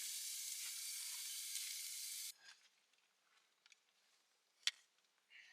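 Garlic ajillo sizzling in hot oil with green onion added, a steady hiss that cuts off abruptly about two seconds in. After that it is nearly quiet, with one sharp click near the end.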